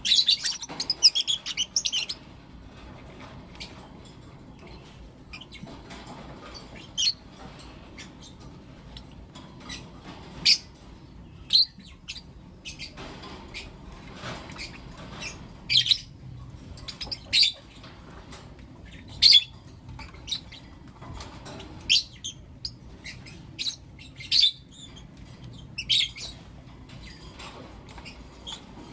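Lovebirds calling: a quick burst of chattering chirps in the first two seconds, then single sharp, high-pitched chirps every second or two.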